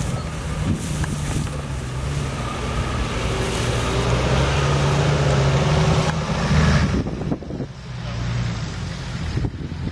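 A 4WD's engine running at low revs as it crawls down a steep, rutted slope, growing louder as it comes closer, with a brief drop in level about seven seconds in.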